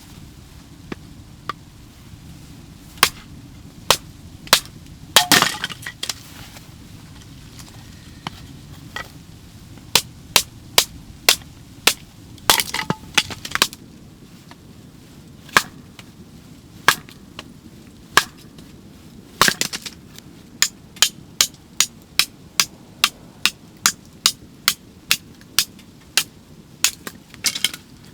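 Firewood being split into kindling: a series of sharp wooden cracks and knocks, scattered at first, then a steady run of blows about every half second in the last third.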